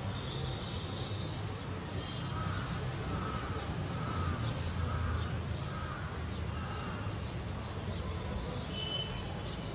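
Birds calling outdoors: a run of about five calls in quick succession from about two to five seconds in, with short high chirps scattered throughout. A steady low rumble of background noise runs underneath.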